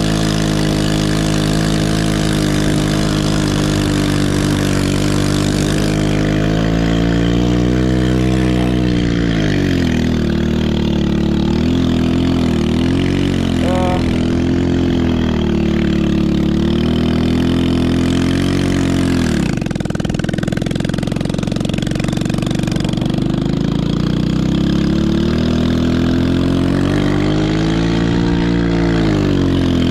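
Small single-cylinder four-stroke engine of a Chinese 110cc ATV running under changing throttle while riding. It holds a high pitch for several seconds, drops about nine seconds in, rises and falls, dips sharply about twenty seconds in, then climbs again near the end.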